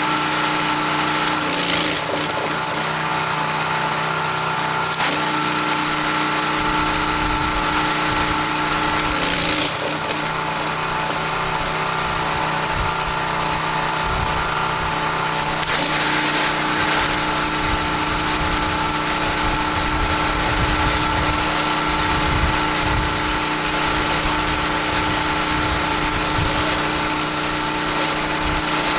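Gas-engine pressure washer running steadily, with the hiss of the high-pressure water spray. The engine's note shifts briefly a few times, about 2, 5, 10 and 16 seconds in.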